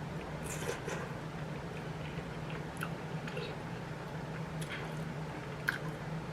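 Someone chewing a mouthful of chili, with scattered soft mouth clicks and smacks and one sharper click near the end, over a faint steady low hum.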